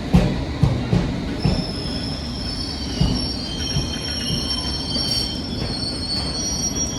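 London Underground District line train in the station: a few knocks of the wheels over rail joints in the first second or so, over a steady rumble, then a high wheel squeal of several tones starting about a second and a half in and stopping near the end.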